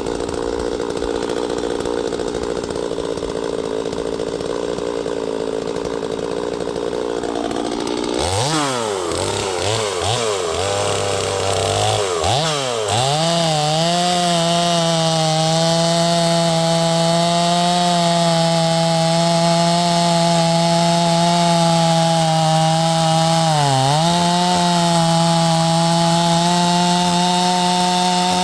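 Neotec NS846 45.4cc two-stroke chainsaw idling, then revved up and down several times about eight seconds in. From about thirteen seconds it is held at full throttle with a steady high pitch that dips briefly twice under load.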